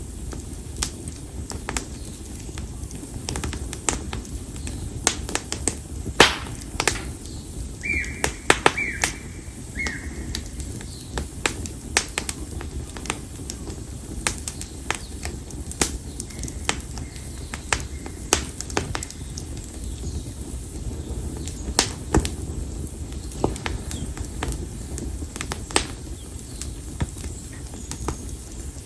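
Split konara oak logs burning in an open fire, crackling with irregular sharp pops over a low steady rumble of flame. A brief high whistling tone comes about eight seconds in.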